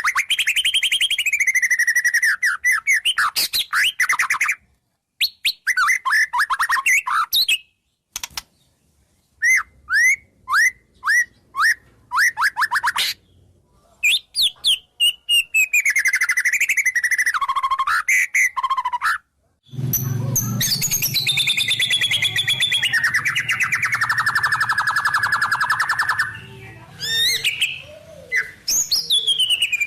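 White-rumped shama (murai batu) singing: fast strings of repeated whistled notes and slurred phrases, broken by sudden gaps. About twenty seconds in it becomes a dense, unbroken warble with a low rumble underneath.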